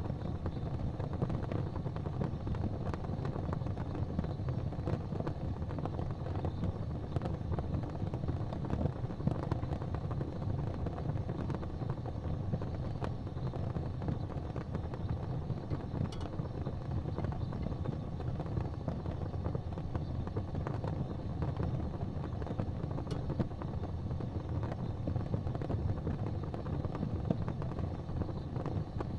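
Wood fire burning in a fireplace: a steady low rush of flames with frequent small crackles and pops, and a sharper pop about 16 seconds in and again about 23 seconds in.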